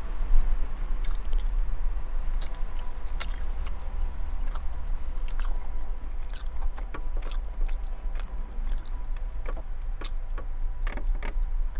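Close-up chewing of grilled chicken and broccoli Alfredo, with short wet mouth clicks scattered through, over a steady low hum.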